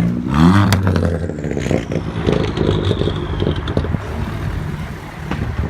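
Car engine revving, its pitch climbing in the first half-second and then dropping away, followed by a rough low rumble mixed with clattering clicks.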